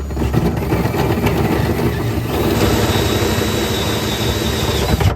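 Electric drill driving a hole saw through the car's sheet-steel body, a loud grinding cut with a high whine joining about halfway through, stopping abruptly just before the end.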